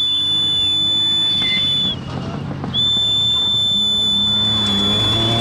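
Two long, shrill whistle blasts, the second starting about two and a half seconds in, the usual warning on a rally stage that a car is coming. Under the second blast, an approaching rally car's engine rises in pitch.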